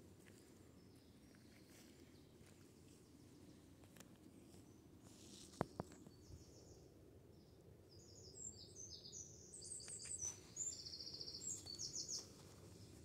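Quiet outdoor ambience with birds calling: bursts of high, rapid chirps and trills that come thick over the last few seconds. Two sharp clicks sound just before the midpoint.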